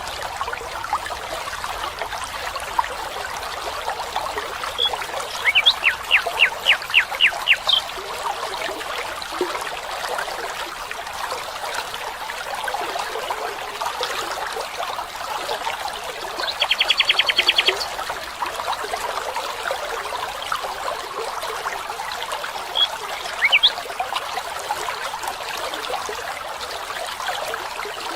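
Running water trickling steadily, with a songbird calling over it: a short series of about eight quick notes, later a fast trill, then a couple of brief calls near the end.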